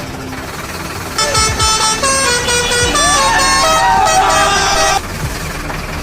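A truck-style musical horn plays a multi-note tune over a steady engine hum, starting about a second in, stepping between pitches with a wavering glide, and cutting off abruptly after about four seconds.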